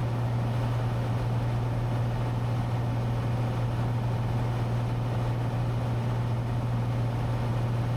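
Cessna 182T's six-cylinder piston engine and propeller droning steadily in flight, a constant low hum with no change in pitch.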